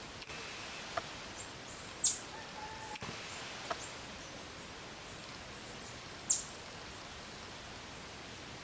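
Two short, sharp, high bird chirps, about two seconds in and about six seconds in, over a steady hiss of outdoor background noise, with a few faint clicks between them.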